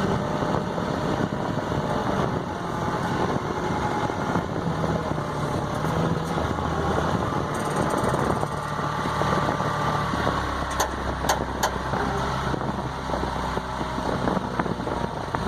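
Telehandler engine running steadily while the machine is maneuvered with a load on its forks; its note drops lower and heavier about six seconds in. Three sharp clicks come near the eleven-second mark.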